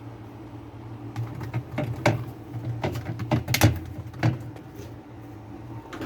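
Washing machine parts knocking and clattering as they are handled and pulled apart, with a flurry of sharp knocks between about one and four and a half seconds in, the loudest near the middle. A steady low hum runs under it.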